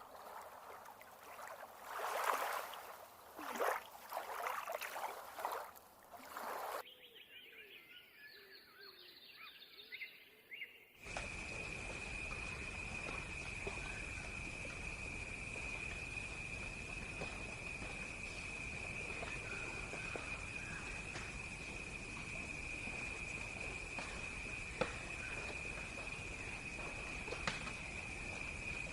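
Nature recordings cut together: about seven seconds of loud, irregular bird calls, a short quieter stretch of faint calls, then a steady high-pitched insect trill over background hiss for the rest.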